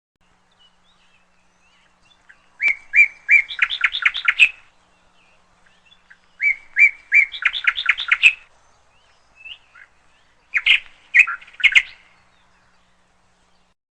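Canary chirping in three short bursts, each a few separate notes that quicken into a rapid trill.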